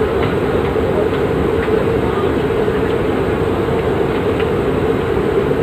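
Steady, loud drone of a passenger ship's engines and machinery under way, with no pauses or changes.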